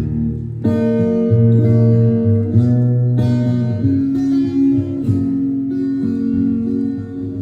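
Guitar playing the song's opening instrumental introduction: sustained, ringing chords that change every second or so.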